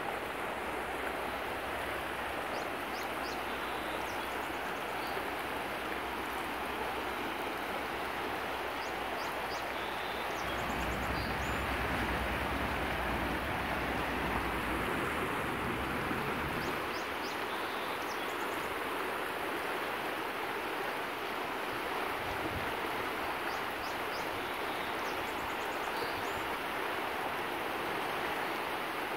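Steady rush of flowing water, with a bird's short high calls coming in small clusters every several seconds. A low rumble swells for a few seconds in the middle.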